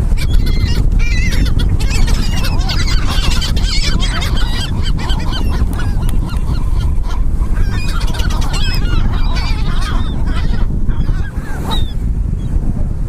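A flock of gulls calling over one another, many short squawks overlapping, thinning out near the end, over a steady low rumble.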